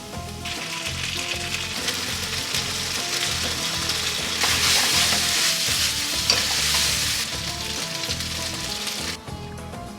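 Food sizzling as it fries in a pan. The sizzle swells in the middle and cuts back sharply near the end, over background music with a steady beat.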